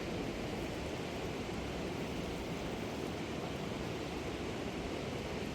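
Steady rushing of a fast-flowing river, an even noise with no breaks or distinct events.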